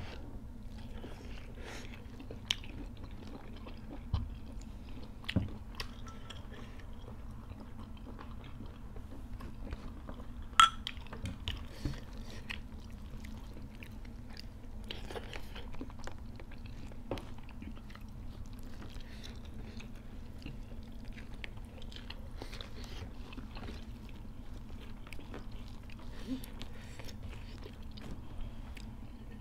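Close-up mouth sounds of two people eating rice and chicken curry by hand: chewing, with scattered short clicks and smacks, the sharpest about ten seconds in, over a steady low hum.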